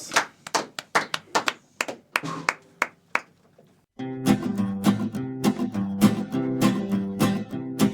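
Scattered hand-clapping from a small audience thins out and dies away. After a brief near-silent pause, music with strummed acoustic guitar starts abruptly about halfway through.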